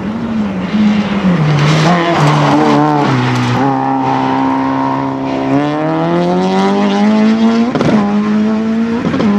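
Racing car engine on a sprint course. The revs fall about a second in, jump up through quick gear changes, hold steady, then climb under hard acceleration. Two sharp cracks come near the end.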